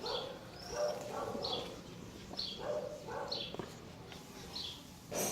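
An animal calling over and over, about once a second, each call a short lower sound followed by a high, quickly falling chirp.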